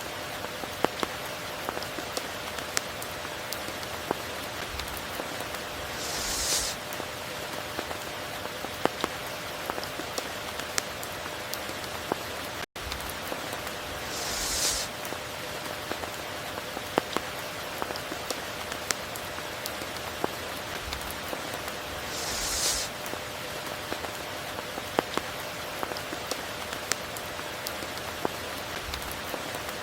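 Steady rain falling, with individual drops ticking sharply against a constant wash of noise. About every eight seconds a brief hissing swell rises and fades, and the sound cuts out for an instant about halfway through.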